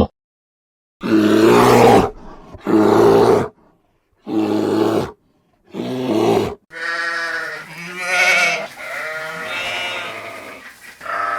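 Animal calls: four short pitched calls, each cut off by silence, then a longer run of calls and one more near the end.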